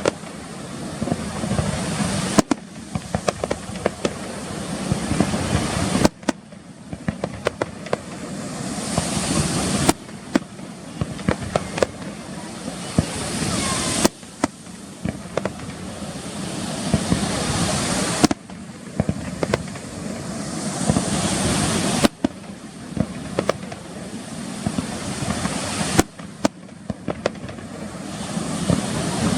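Fireworks display: a dense, continuous run of sharp bangs and crackling from bursting shells.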